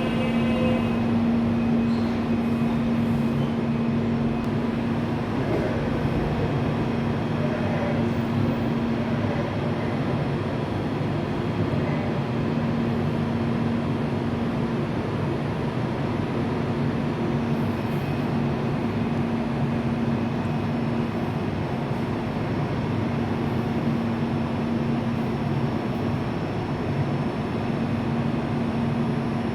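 Seoul Subway Line 4 electric train sounding at the platform: a steady rumble with one low, even hum that does not rise or fall.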